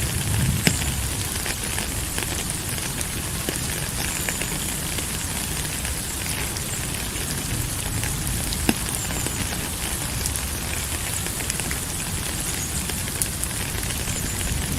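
Steady rain falling, with scattered drops ticking and a couple of sharper clicks, one near the start and one around the middle.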